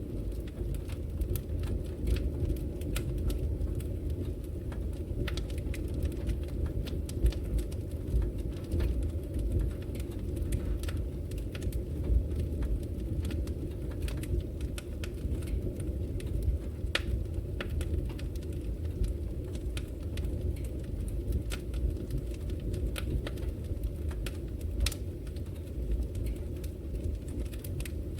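Fire burning in a brick fireplace: a steady low rush of flames with frequent, irregular sharp crackles and pops.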